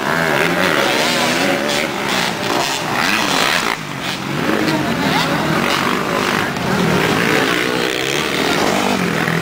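Motocross bike engines revving, several at once, their pitch rising and falling as the riders work the throttle.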